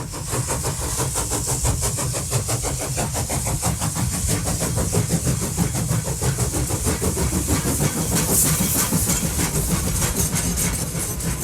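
Steam locomotive running at speed, chuffing in fast, even beats of about seven a second over a hiss of steam and a low rumble.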